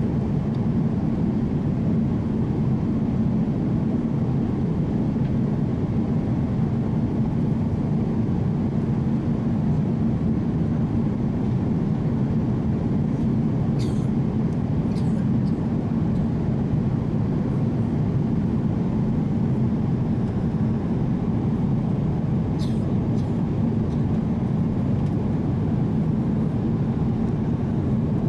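Steady cabin noise of a Boeing 787-8 Dreamliner in cruise: an even low rush of airflow and its General Electric engines, with a few faint clicks about halfway and again later on.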